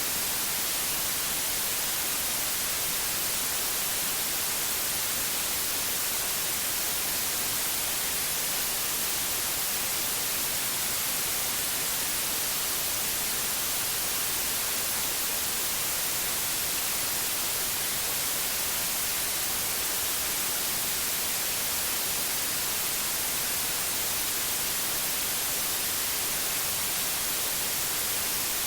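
Steady electronic white noise: an even hiss with no tones or changes, brightest in the treble.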